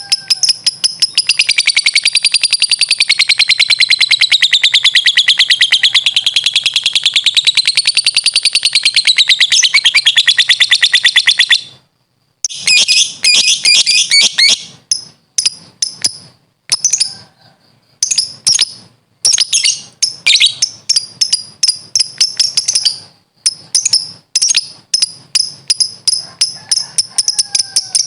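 Lovebird giving its 'ngekek' song: a loud, very rapid high-pitched chattering trill. It runs unbroken for about twelve seconds, then continues in shorter bursts broken by brief pauses.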